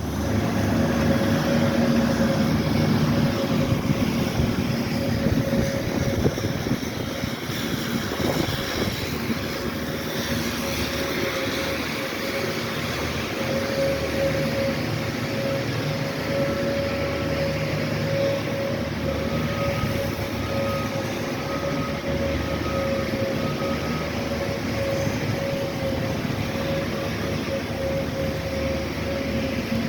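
Engine of snow-clearing machinery running steadily, with a steady tone held over the engine noise throughout.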